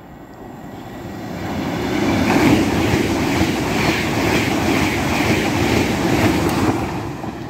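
LNER Azuma high-speed train running through the platform at speed. Its rush of wheel and air noise swells about a second in, stays loud with a repeating wheel clatter, and eases off near the end.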